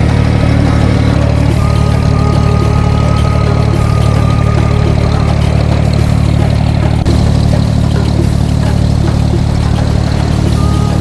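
Abra water taxi's diesel engine running steadily: a loud, even, low drone that holds through the whole crossing.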